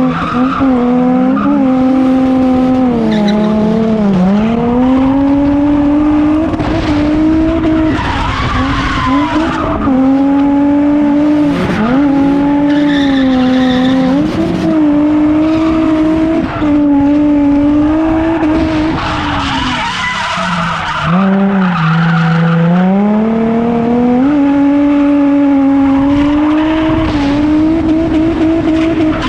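A drift car's engine held high in the revs while its rear tyres skid and squeal through long slides. The revs drop and climb back several times, around 4 s, 10 s, 12 s and most deeply around 21 s, as the throttle is feathered between slides.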